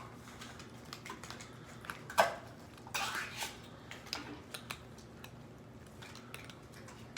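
A spoon knocking and scraping against cat food bowls as they are filled: a scatter of light clicks and clinks, with louder knocks about two and three seconds in.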